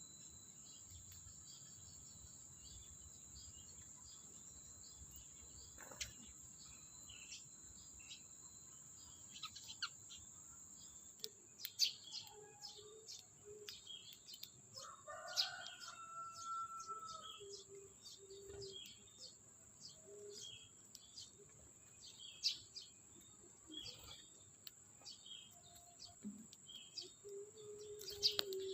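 Sparrows chirping in quick, irregular short calls that start about a third of the way in, with one longer held call near the middle. A steady high cricket trill runs underneath.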